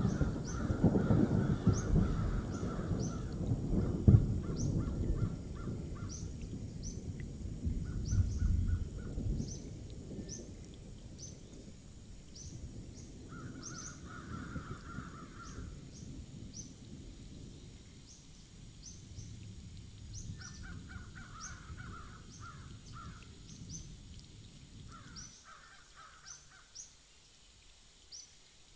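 Birds calling: a short high chirp repeating a little more than once a second, with bouts of harsher, rapidly pulsing calls. Under them a low rumble, loudest at the start, fades away over the first ten seconds or so.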